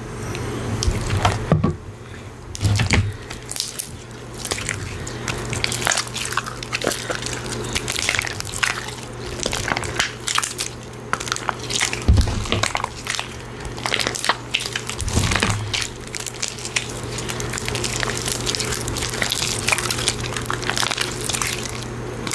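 Slime being handled by hand: a dense, irregular run of small wet, sticky clicks and pops, over a steady low hum.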